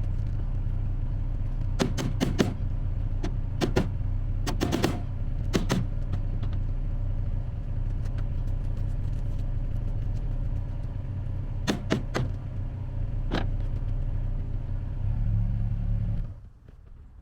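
Vehicle engine idling steadily, with scattered sharp clicks and knocks, then shut off about sixteen seconds in.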